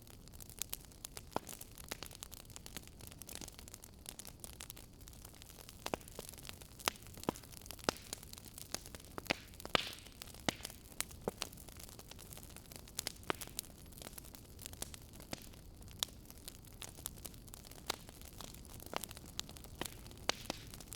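Wood fire crackling in a fireplace: irregular sharp pops and snaps over a steady low hiss, with a brief louder hiss about halfway through.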